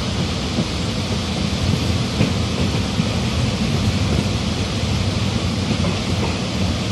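Electric multiple-unit local train running: a steady, loud rumble with an even rush of noise over it.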